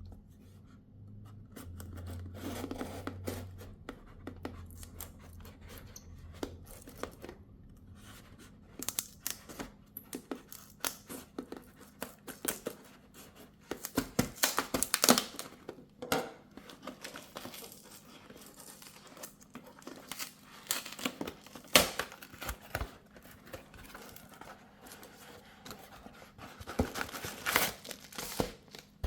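Packaging being opened and handled by hand: paper or plastic tearing and crinkling, with irregular clicks, taps and scrapes.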